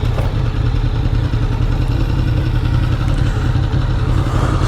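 Honda VFR750's V4 engine idling steadily at low revs as the motorcycle is brought in to park.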